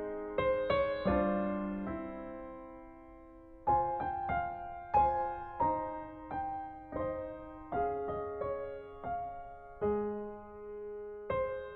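Soft background piano music: a slow melody of single ringing notes with a brief pause about three seconds in.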